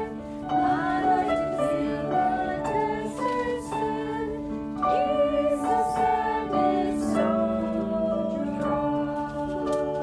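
A children's Sabbath school song: singing voices with instrumental accompaniment, held notes changing every second or so.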